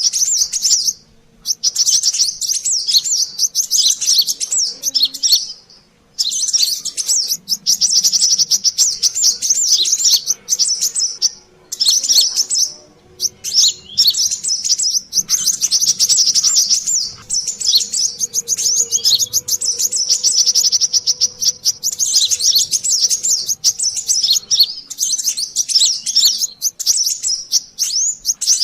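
Brown-throated sunbird (kolibri kelapa) calls: rapid, high-pitched chirping twitters in long dense bouts, broken by a few short pauses. This is a noisy bird-lure (pikat) call used to attract sunbirds.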